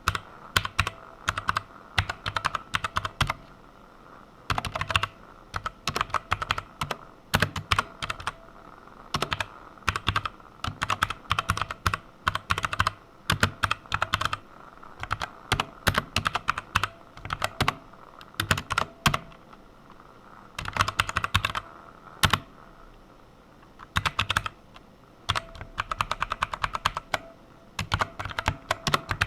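Typing on a computer keyboard: quick runs of keystrokes in bursts, broken by short pauses of a second or two.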